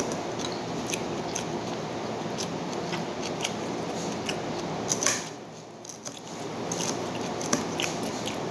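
A person eating with his hands: chewing and small sharp mouth and finger clicks scattered throughout, over a steady background hum that drops away for about a second past the middle.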